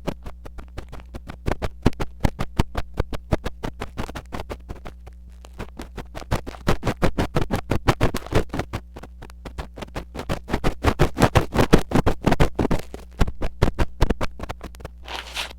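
Metal ear pick scraping rapidly against a mini microphone, in quick strokes of about five or six a second that come in louder and softer runs over a steady low hum. A brighter, longer swish comes near the end.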